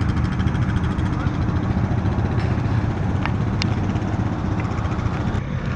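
A vehicle engine idling steadily with a low rumble, with a couple of short sharp clicks about three and a half seconds in.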